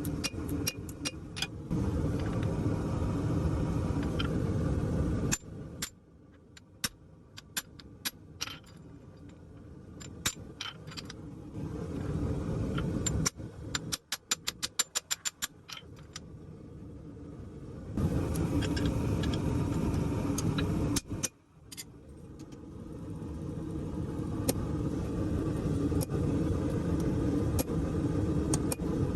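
A steady roar from the forge fire, broken in the middle by scattered metallic clinks and then a fast run of hammer strikes on metal, about six a second. The roar comes back near the end.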